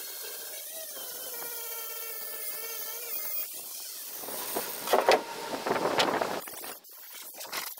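A power tool running with a steady whine, then about four seconds in it turns loud and rough with sharp clicks for a couple of seconds as it works into the material, followed by quieter scraping.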